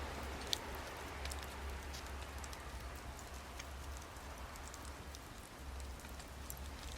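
Wood fire burning in a Snow Peak fire stand, crackling with scattered small pops and one sharper pop about half a second in, over a steady low rumble.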